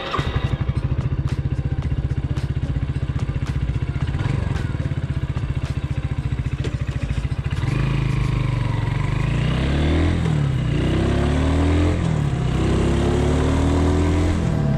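MUTT Sabbath 250's single-cylinder engine idling with a quick, even beat. About halfway through it pulls away, its pitch rising and dropping back about three times as it shifts up through the gears.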